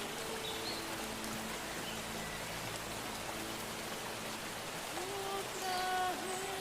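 Steady rain falling, with soft held notes of background music underneath that grow stronger near the end.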